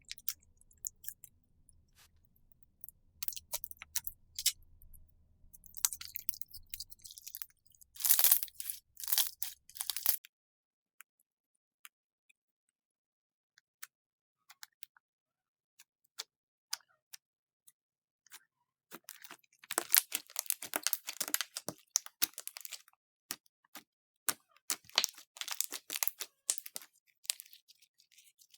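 Slime being squeezed and pressed by hand, giving clusters of sharp crackly clicks and pops. There is a long quiet gap in the middle.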